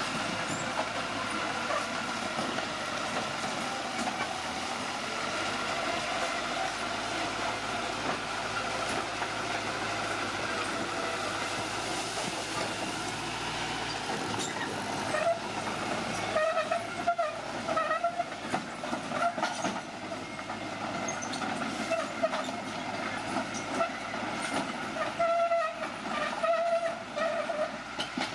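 Heavy machine running steadily. From about halfway on, wavering metallic squeals come and go, of the kind steel crawler tracks make on a working bulldozer.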